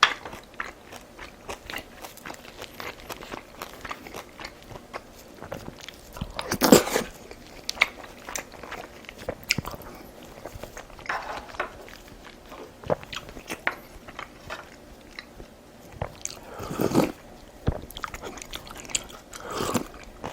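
Close-miked eating sounds from a person chewing and biting a Korean meal of galbitang with side dishes: wet chewing with many sharp crunchy clicks, and three louder, longer mouth noises, one about a third of the way in and two near the end.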